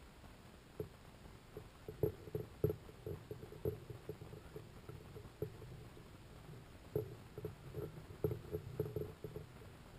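Irregular muffled knocks and taps, bunched in clusters of quick strikes with pauses between.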